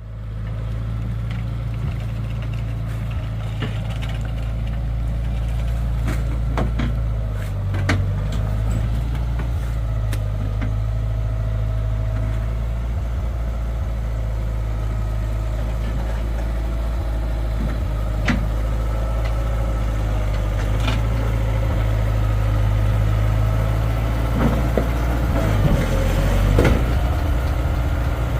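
An engine idling steadily, with a strong low hum. Scattered light clicks and knocks sound over it, with a few louder ones near the end.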